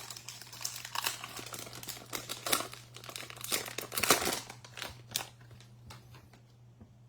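Wrapper of a pack of baseball trading cards being torn open and crinkled: a busy run of crackles, loudest about four seconds in, that dies away after about five seconds.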